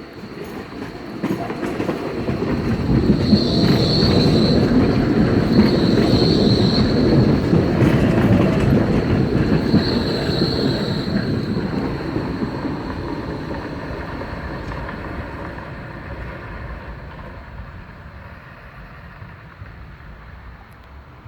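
Tram passing by: the rumble of wheels on rails builds, peaks, then fades away. Three short, high-pitched wheel squeals come in the middle.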